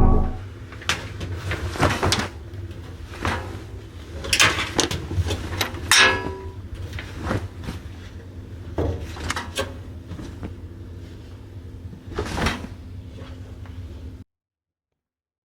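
A string of irregular knocks and clatters over a steady low hum, cutting off to dead silence about a second before the end.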